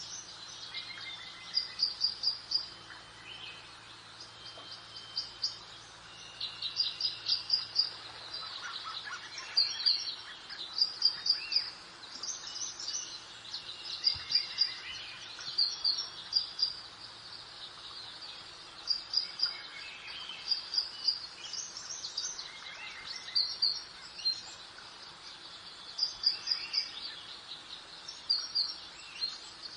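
Songbirds chirping and singing in quick clusters of short, high notes every second or two, over a soft, steady background hiss of breeze.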